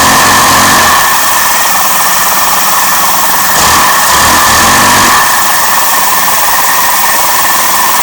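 Vacuum cleaner running loudly with a steady whine, driving a homemade LEGO opposed-piston butterfly-valve vacuum engine. The engine's rapid chugging comes through in the first second and again about four to five seconds in.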